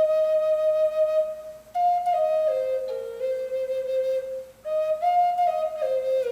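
Native American flute playing a slow, solo melody of long held notes that step down and back up, with two short pauses for breath.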